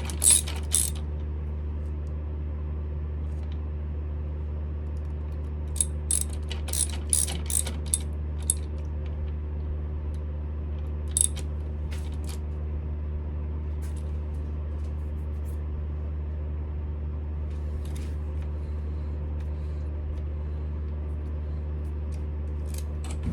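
Lathe motor humming steadily, with sharp metal clinks in a quick cluster at the start and again around six to eight seconds in, then a few single clicks.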